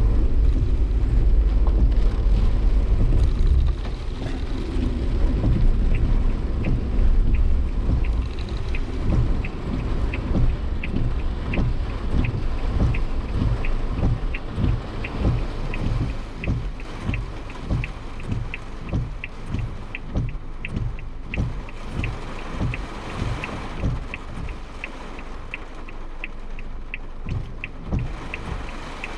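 Cabin sound of a Suzuki Jimny Sierra in typhoon rain. A heavy road and wind rumble drops away after about four seconds as the car slows. Then comes rain noise on the body with a steady ticking, about one and a half ticks a second, starting a few seconds later.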